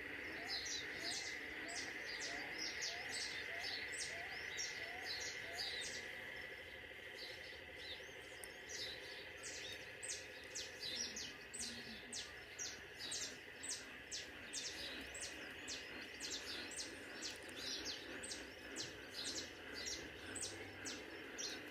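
Birds chirping in the open countryside: a long run of short, high chirps repeated about twice a second, over a steady high hum that fades after about six seconds.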